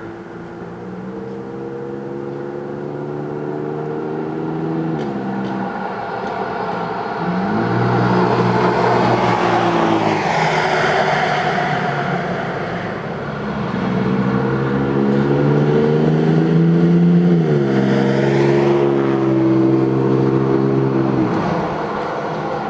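Exhaust and intake of a 2008 Toyota Tacoma with a Borla stainless exhaust and aFe cold air intake, the engine revving up and dropping back about four times, with a louder rush at the highest revs.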